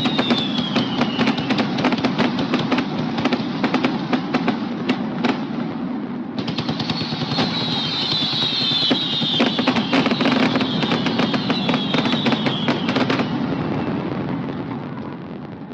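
Fireworks display: a dense run of rapid crackling bangs with falling whistling tones over them twice, under a steady low hum. The crackle stops about 13 seconds in and the sound dies down.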